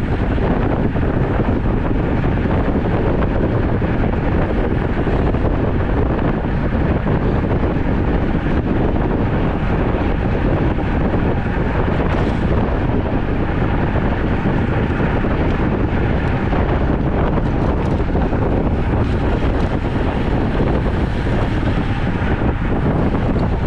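Loud, steady wind rushing over the microphone of a camera on a moving road bicycle.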